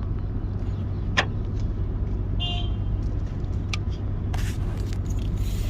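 Steady low mechanical hum, like an engine or machine running nearby, with a sharp click about a second in, a brief chirp midway and a few lighter clicks later.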